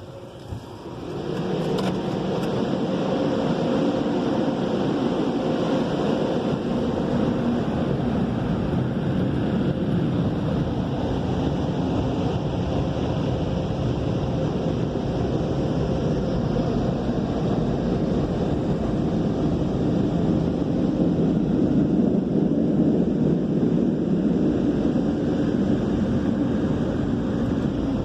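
Car wash air-dryer blowers start up about a second in and then run steadily. It is a loud, even rush of air heard from inside the car.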